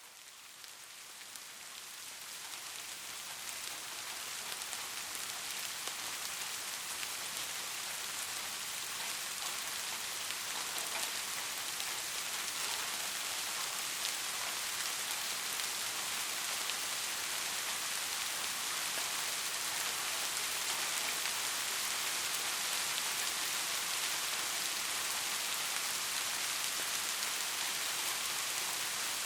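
Steady rain: a dense hiss of many falling drops that fades in from silence over the first few seconds, then holds even.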